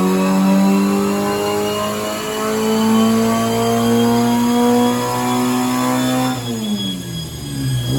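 Full-race 1293 cc A-series four-cylinder engine of a Speedwell Sprite pulling at full throttle on a rolling road, its revs climbing steadily. About six seconds in the throttle shuts and the revs fall away quickly, with a short blip near the end.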